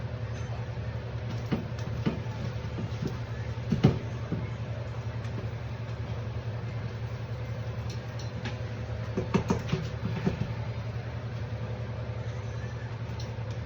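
Steady low mechanical hum with a faint steady tone, broken by occasional light knocks and clinks: a sharper knock about four seconds in and a quick cluster around nine to ten seconds.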